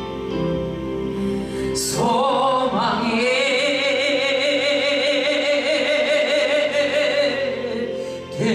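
Worship song sung live over a keyboard accompaniment: about two seconds in, a singer comes in and holds one long note with vibrato, on the word '소망이' ('hope').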